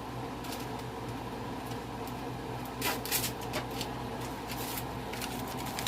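Onion soup mix pouches crinkling and rustling as they are handled and emptied into the pot, with a cluster of sharper crackles about three seconds in, over a steady low hum.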